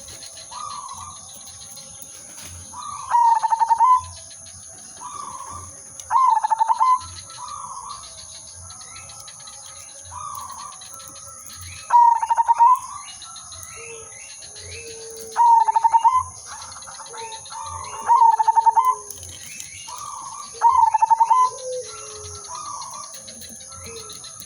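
Zebra doves (perkutut) cooing. One loud dove repeats its rolling, trilled song phrase six times, roughly every three seconds, with quieter coos from other doves in between.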